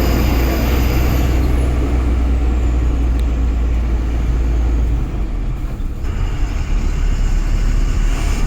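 Ashok Leyland Ecomet Star 1815 truck's 3.8-litre H-series diesel engine running, a steady low rumble with road and wind noise. A faint high whine drops in pitch over the first few seconds, and the rumble eases slightly about five seconds in.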